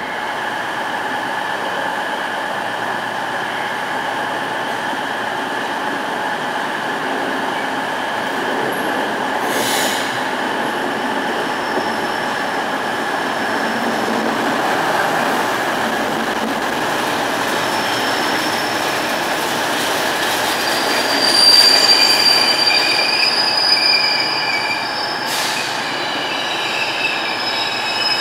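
Class 60 diesel locomotive passing at low speed, followed by a train of bogie tank wagons rumbling by. In the second half the wagon wheels set up high, steady squealing on the rails, with a couple of sharp clicks from the wheels crossing rail joints.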